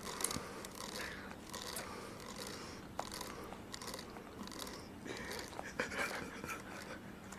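Faint, scattered mouth sounds of a baby sucking and chewing on a piece of lemon, with small wet clicks and smacks.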